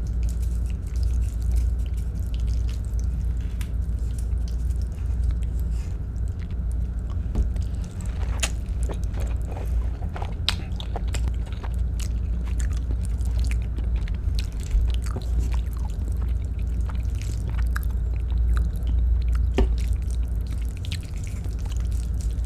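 Close-up eating sounds of a person chewing Filipino-style spaghetti: wet mouth sounds and many small sharp clicks, heaviest from about eight seconds in, over a steady low hum.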